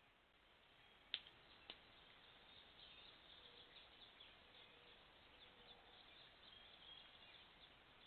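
Near silence broken by two sharp clicks about a second in, half a second apart, followed by faint high bird chirps that keep on through the rest.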